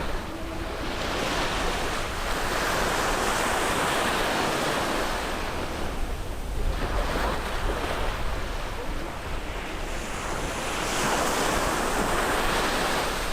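Caribbean sea surf breaking on the shore: the wash swells and fades in two big surges, with a smaller one between them.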